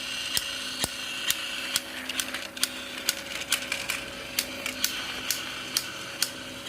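Battery-powered Trackmaster Stanley toy engine's small electric motor whirring steadily, with a sharp click about twice a second. It is not running right: the owner thinks something is wrong with the motor.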